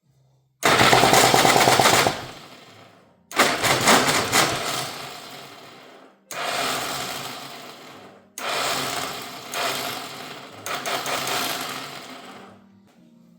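Two-stroke Rotax 123 single-cylinder engine of a 1992 Aprilia AF1 125 running in four short, loud bursts. Each burst starts suddenly and fades away over one to four seconds, with near silence between. The engine is being run for the first time after years of standing.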